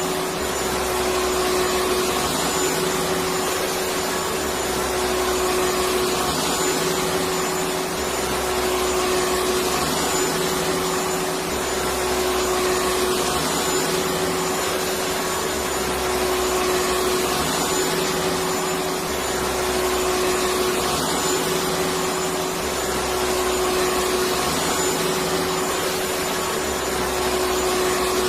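Electric vacuum cleaner running steadily: an even rush of air with a constant motor whine.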